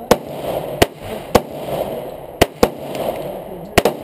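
Handgun shots fired at an uneven pace, about seven in four seconds, with two pairs coming in quick succession, each crack followed by a short ring.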